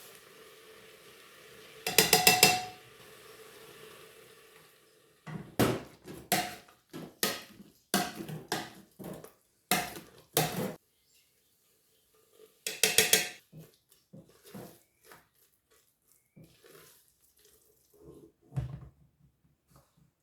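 Kitchen dishes and utensils clinking and clattering in a string of separate knocks with short ringing tones, with a faint running hiss under the first few seconds.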